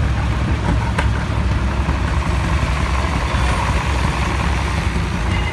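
Large tractor engine idling, a steady low rumble.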